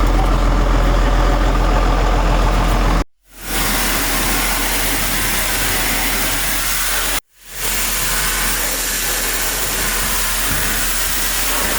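A vehicle engine running steadily with a low hum and a hiss, broken twice by short gaps where the footage is cut.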